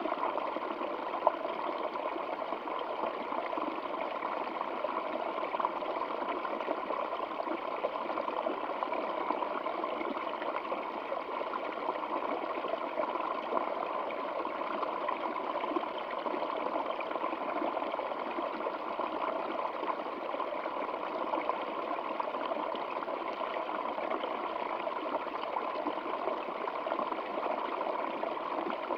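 Water in a stream flowing and burbling steadily.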